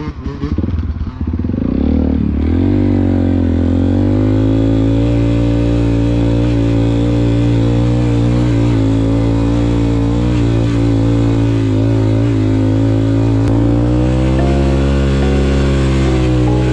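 Honda CRF150 dirt bike's single-cylinder four-stroke engine running under way. It is choppy and uneven for about the first two seconds, then holds a steady, even pitch, rising slightly near the end.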